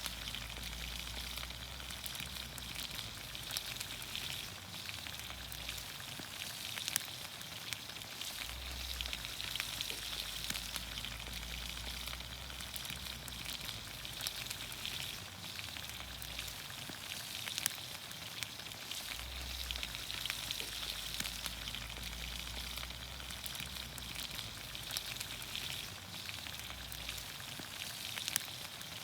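Vegetables cooking in olive oil over a campfire, sizzling and steaming with a steady hiss and scattered sharp pops and crackles.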